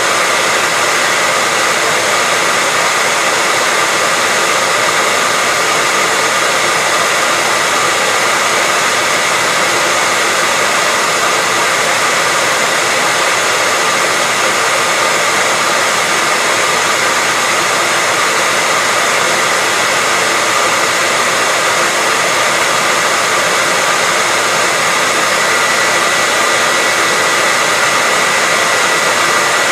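Hair dryer running continuously: a steady, even rush of air with a constant high whine from its motor, with no change in speed or level.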